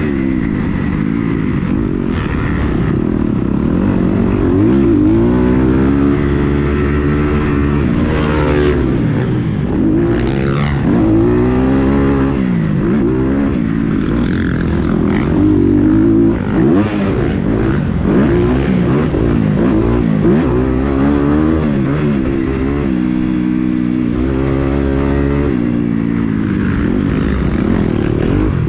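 Kawasaki KX250 motocross bike engine revving hard and dropping off again and again, the pitch climbing through each gear and falling on the throttle-off. The track riding carries on without a break.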